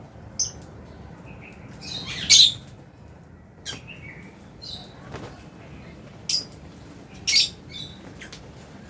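Lovebirds in an aviary chirping: several short, sharp, high chirps, the loudest a little over two seconds in and two more near the end, over a steady background of softer chatter.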